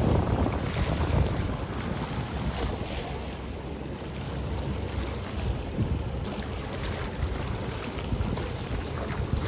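Wind buffeting the microphone over the wash of sea waves, strongest at the start and easing after a second or two.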